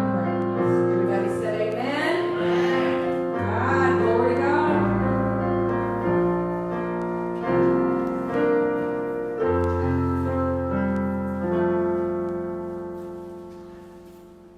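Piano-sounding keyboard playing slow held chords, with a voice singing along for a few seconds early on. The last chord is left to ring and fades away near the end, as a song closes.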